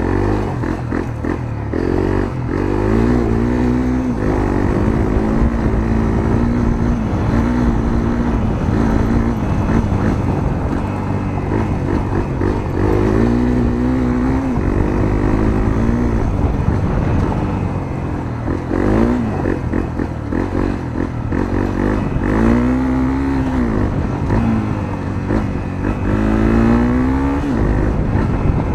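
Honda CRF250L's single-cylinder four-stroke engine with a Moriwaki aftermarket muffler, heard from on the bike while riding. The engine note climbs and drops again and again, several times in a row, as the rider accelerates and lets off.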